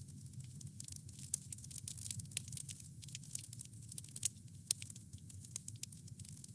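Wood fire crackling: a dense, irregular run of small sharp snaps and pops over a low steady rumble, with a couple of louder pops.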